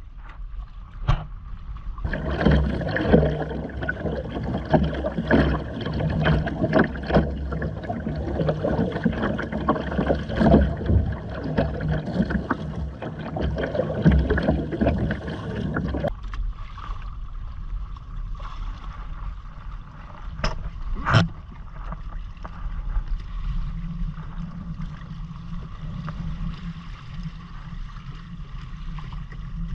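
Water splashing and gurgling against the hull of a Hobie Island sailing kayak under way, with wind on the microphone; the splashing is heavy at first and eases to a quieter steady wash about halfway through, with a couple of short knocks soon after.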